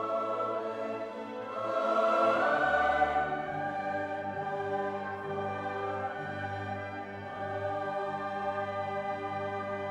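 Orchestral music with a choir singing sustained chords, swelling in loudness about two seconds in.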